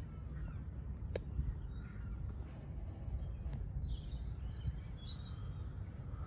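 Birds chirping in the background over a steady low rumble, with a single sharp click about a second in.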